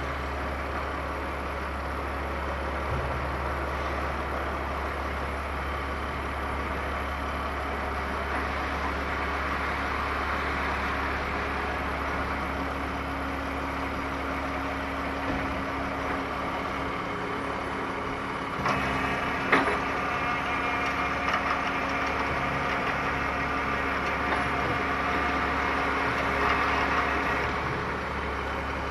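Caterpillar 336E excavator's diesel engine running steadily while it works, with a cluster of sharp knocks and cracks about two-thirds of the way through and a few lighter ones after.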